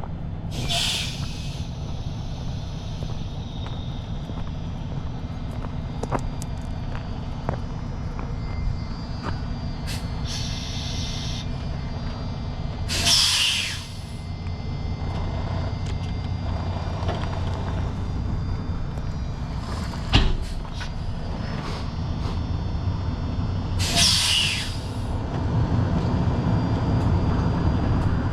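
Heavy diesel truck engine running low and steady, with three short air-brake hisses: about a second in, about halfway, and a few seconds before the end. The engine gets louder near the end as the truck moves off.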